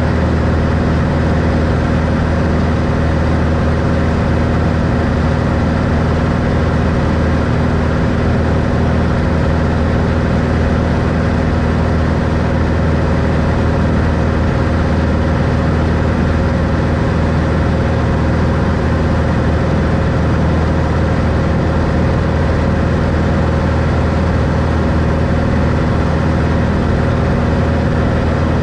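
Piston engine and propeller of a 1964 Cessna Skylane, a six-cylinder Continental O-470, running steadily at constant power with no change in pitch.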